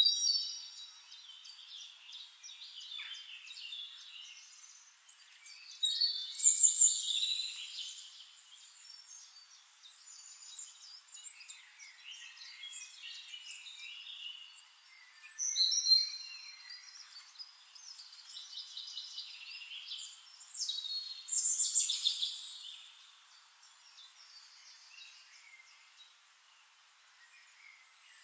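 Birds calling and singing, with louder bursts of song about six, sixteen and twenty-two seconds in.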